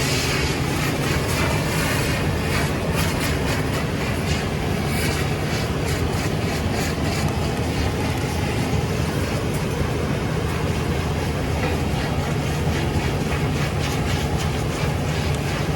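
Fire engine's engine running steadily with a continuous hiss over it.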